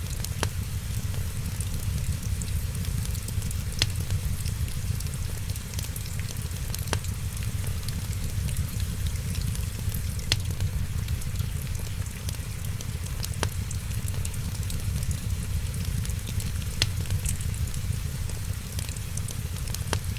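Wood fire crackling in a fireplace over a steady low rumble, with a sharp pop about every three seconds.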